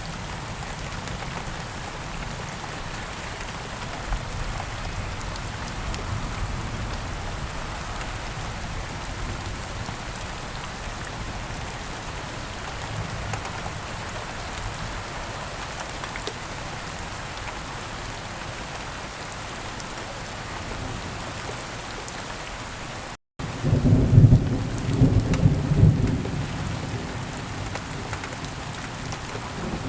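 Steady rain falling, an even hiss throughout. About 23 seconds in the sound cuts out for a split second, then a loud, low clap and roll of thunder rumbles for about three seconds before fading back under the rain.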